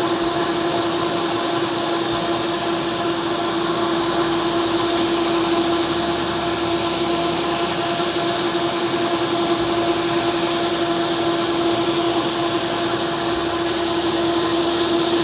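Bona FlexiSand PowerDrive gear-driven floor buffer running steadily under load while sanding a hardwood floor: a constant motor hum with one steady tone and a hiss of abrasive on wood.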